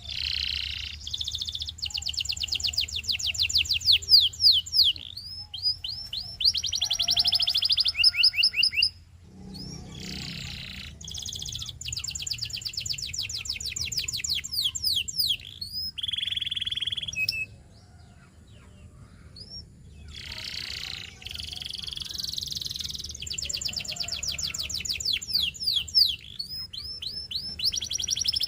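Domestic canary singing in long phrases of fast trills and rolls, high-pitched and rapidly repeated, with short pauses between phrases about nine and eighteen seconds in.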